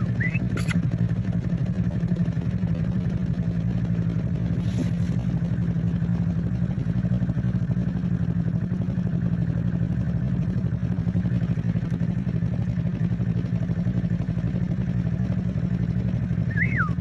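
Vehicle engine idling, a steady low hum. A short whistle comes at the start and again near the end.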